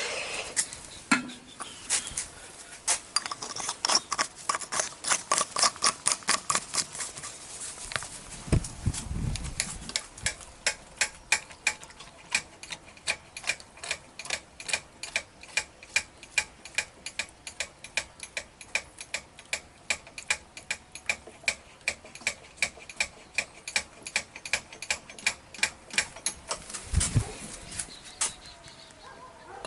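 Steady, evenly spaced mechanical clicking, about two or three clicks a second, with a low thud about nine seconds in and another near the end.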